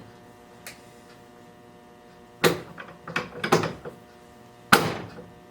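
Sharp clacks and rattles of metal parts or tools being handled and knocked together: one about halfway through, a short cluster just after, and one more near the end, over a steady faint shop hum.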